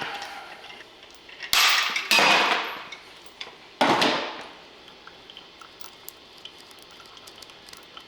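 Three sharp metallic clanks, the second following half a second after the first and the third nearly two seconds later, each ringing away over about a second, followed by light clicks of tools and parts being handled.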